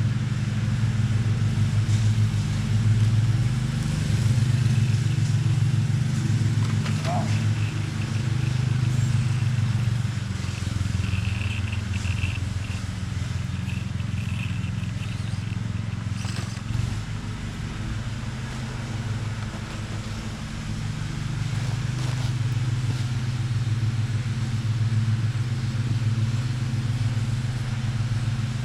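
A steady low motor drone with a fast, even pulse, like an engine running, throughout. Faint higher whines come and go in the middle.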